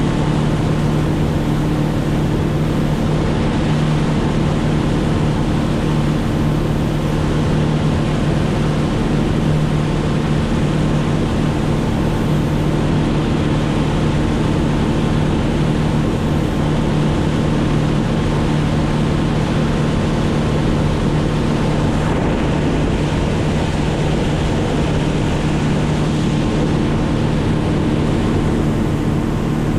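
An engine running at a steady speed, a continuous drone that holds one even pitch, with rushing air or water noise beneath it.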